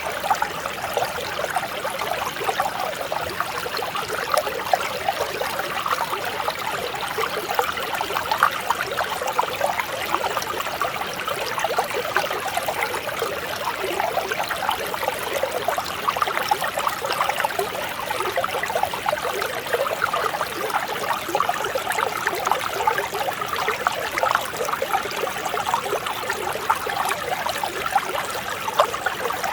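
Mountain stream flowing steadily, a dense trickling and babbling of water.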